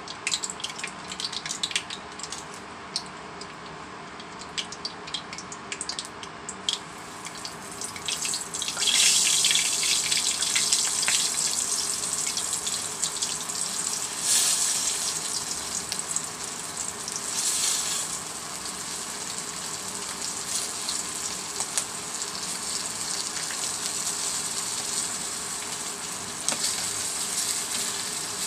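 Cooking oil crackling in a hot nonstick wok, then frying with a dense sizzle from about nine seconds in as flour-dredged chicken feet go into the oil.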